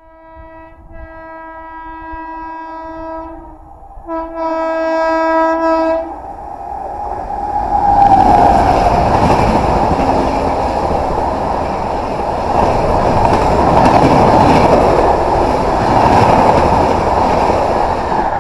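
A WAP7 electric locomotive sounds two long blasts on its horn as it approaches, the second louder. The express then passes close by at speed: a loud, steady rush of wheel and rail noise from the locomotive and its coaches.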